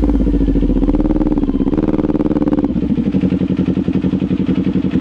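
Kawasaki Ninja 400 parallel-twin engine running, its revs rising and falling twice. About three seconds in it drops to a lower, steady, pulsing idle.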